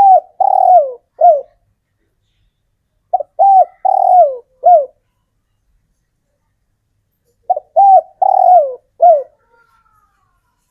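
Male spotted dove cooing: three phrases of about four coos each, a few seconds apart, the third coo of each phrase longer and falling in pitch. It is the male's call to attract females.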